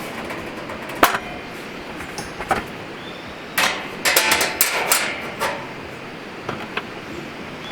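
Hard objects knocking together: single sharp knocks about a second in and again near two and a half seconds, then a run of clattering knocks about halfway through, over a steady hiss.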